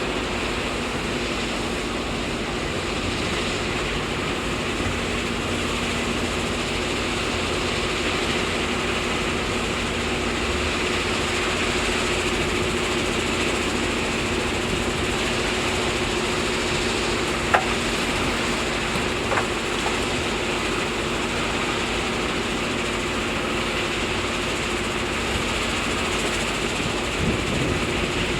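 Excavator's diesel engine running steadily at a constant speed, a continuous drone with a steady hum in it. There is a sharp click about two-thirds of the way in and a fainter one a couple of seconds later.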